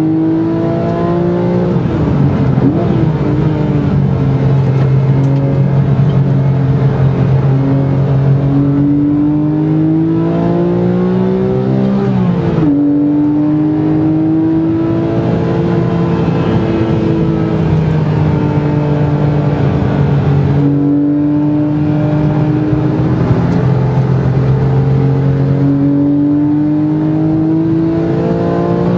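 Porsche 997 GT3's flat-six engine heard from inside the cabin, pulling hard on track, its revs climbing and easing back. The revs drop sharply about twelve seconds in and again briefly near twenty seconds.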